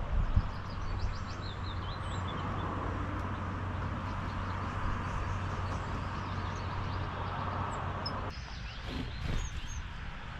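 Small songbirds chirping: a quick run of falling notes about a second in and a few high thin calls near the end, over a steady low hum and hiss that drops away suddenly about eight seconds in.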